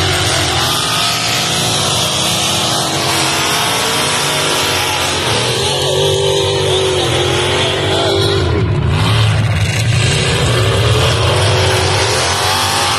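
Several demolition derby cars' engines revving at once, their pitches rising and falling over one another as the cars accelerate and back off.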